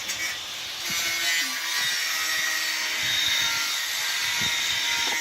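A power tool steadily cutting metal, a hissing whine that gets louder about a second in.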